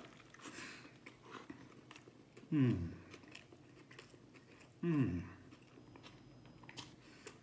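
A person biting into a burger and chewing with the mouth open, with faint wet crackles. About two and a half seconds in and again near five seconds, he gives a short 'mmm' of enjoyment that falls in pitch.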